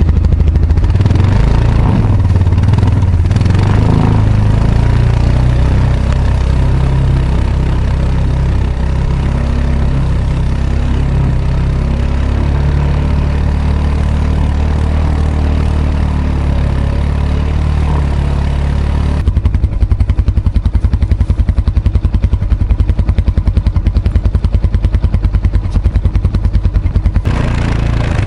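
Kawasaki ATV engine running steadily under throttle, then dropping to a low, evenly pulsing idle about two-thirds of the way through, and picking up again near the end.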